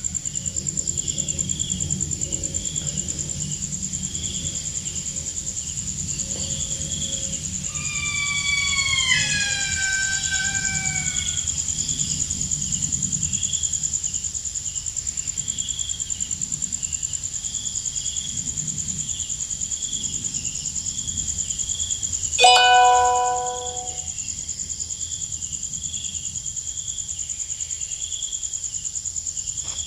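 Night insects keep up a steady high buzz and a pulsing chirp, over a low rumble. About eight seconds in, a series of falling pitched calls sounds, and around twenty-two seconds a short, louder pitched call rings out; these calls are presented as the calls of a musang, a palm civet.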